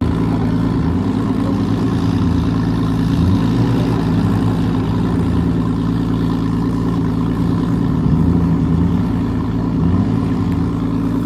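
Straight-piped Ford Mustang engine running steadily at low revs: a loud, even exhaust note whose pitch wavers slightly up and down now and then.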